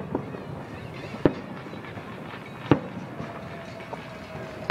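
Aerial fireworks shells bursting: a few sharp booms about a second and a half apart.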